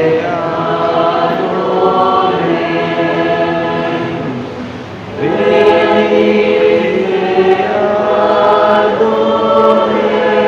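Church choir singing a hymn with long held notes, breaking off briefly about halfway for a breath between phrases and then coming back in louder.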